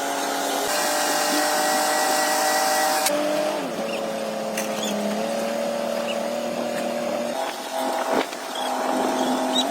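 An engine running steadily, its pitch stepping down about three and a half seconds in.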